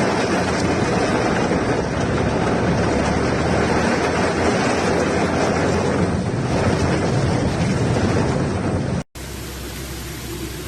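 Storm wind and heavy rain rushing over the microphone in a loud, steady noise. About nine seconds in it cuts off suddenly to a quieter, steady hiss.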